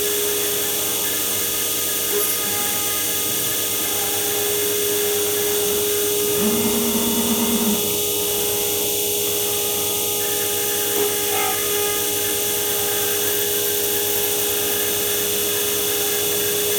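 Spindle of a 5-axis CNC machining centre running at steady speed: a high, steady whine over a constant hiss. A second, lower tone joins briefly about six seconds in.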